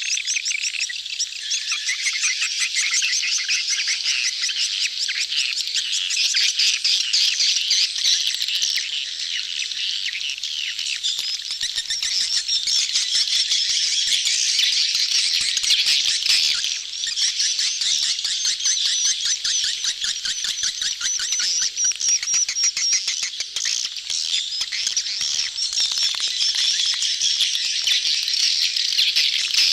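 A dense colony of edible-nest swiftlets calling, many birds at once in rapid chattering trills without a break: the crowding chorus of swiftlets in courtship.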